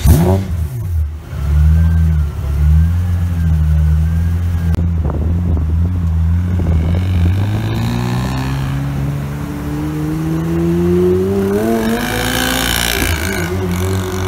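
Pagani Zonda's Mercedes-AMG V12 engine: a sharp rev blip at the start, then low, steady running as the car pulls away. After that comes a long rise in pitch as it accelerates, easing off near the end.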